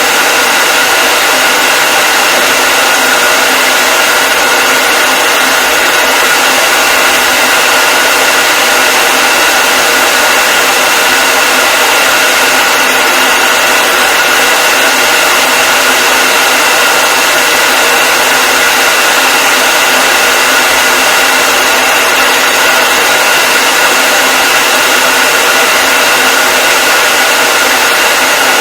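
Hair dryer running steadily: a constant blowing hiss with a steady high whine from the motor.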